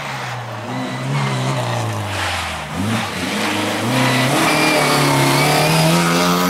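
Rally car engine coming off the throttle, its note falling for the first two and a half seconds, then a brief break and the engine accelerating away, the pitch climbing steadily through the rest.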